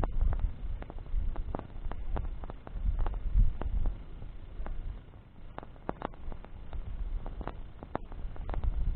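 Campfire of burning branches crackling, with irregular sharp pops several times a second over a low rumble. The rumble is heavier in the first half.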